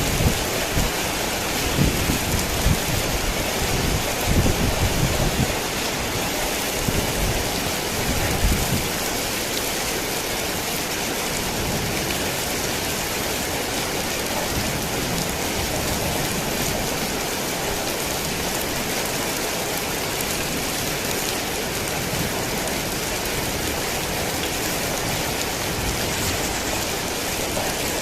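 Heavy rain falling steadily, a dense even hiss. Low rumbling thunder in the first several seconds dies away about nine seconds in, leaving only the rain.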